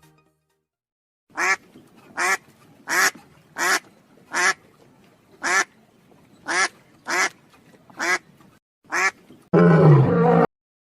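An animal call sound effect: a series of ten short, nasal, quack-like calls spaced under a second apart, followed near the end by one longer, rough, lower-pitched call.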